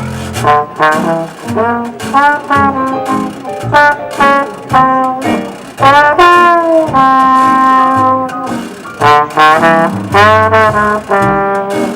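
A New Orleans jazz band playing live, led by brass horns with short punchy phrases and one long held chord about seven seconds in, over light percussive ticks.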